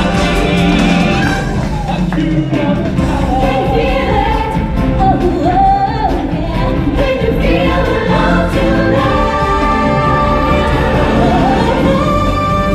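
Stage-show music with a group of voices singing a melody over a full band-style accompaniment.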